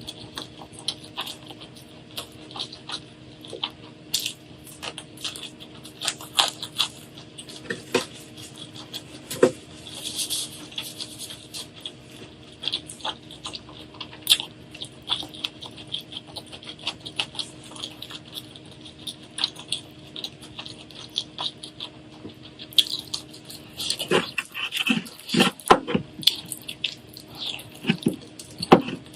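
Close-up eating sounds: rapid, irregular crunching and clicking as crunchy food is chewed, over a steady low hum.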